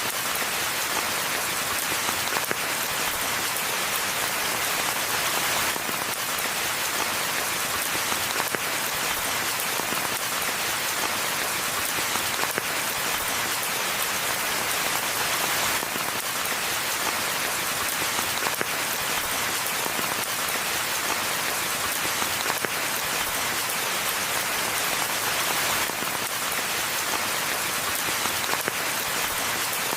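Steady rainfall in a forest: a dense, even patter of raindrops with no letup and no thunder.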